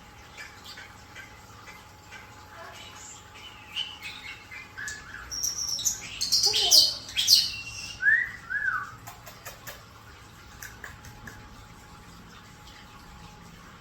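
Pet birds, European starlings and a cockatiel, calling: a burst of squawks, chirps and clicks starting a few seconds in and loudest around the middle, ending in two short rising-and-falling whistles, then only a faint steady hum.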